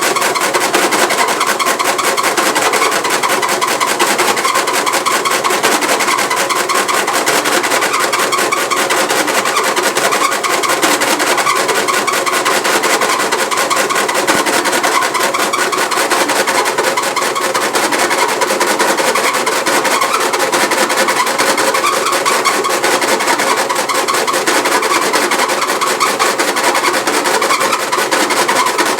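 Frigidaire washing machine running with a loud, steady, fast rattling noise from excessive vibration.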